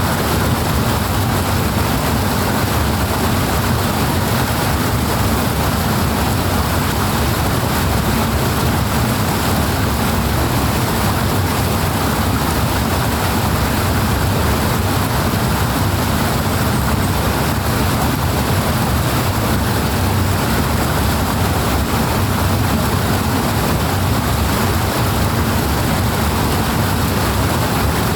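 Powerful water rushing steadily, a loud, unbroken rush with a deep rumble underneath.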